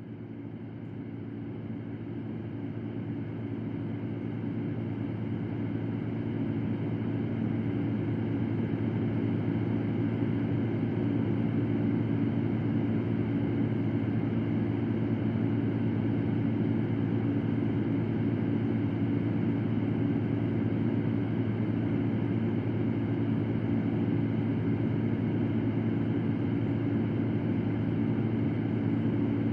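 Electric fan running with a steady low whirring hum and airy rush. It fades in over the first several seconds, then holds at an even level.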